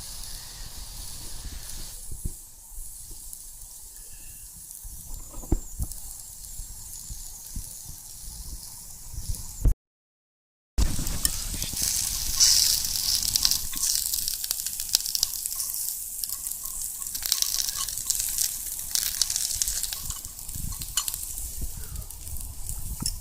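Campfire cooking: crackling and hissing with many small pops. It breaks off for about a second some ten seconds in, then comes back louder and brighter.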